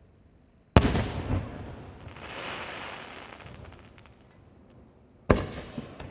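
Aerial firework shells bursting: a sharp bang about a second in and another near the end, each trailing off in a rolling echo. Between them comes a hiss with scattered faint crackles.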